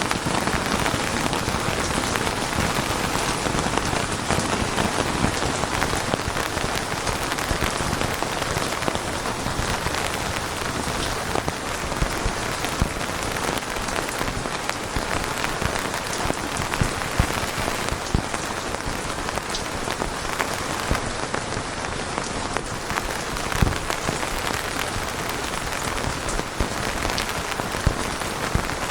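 Steady rain falling, a dense even hiss with scattered louder drops striking a surface.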